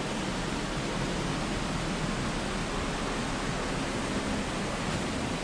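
Steady rush of flowing mountain-creek water, an even hiss without breaks.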